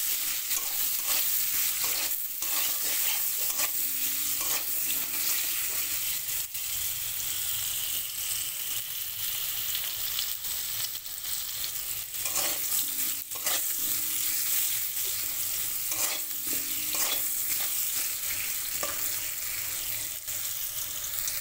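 Potato chunks frying in hot oil in a kadai, with a steady sizzle. A metal spatula stirs and scrapes them against the pan many times, in short strokes.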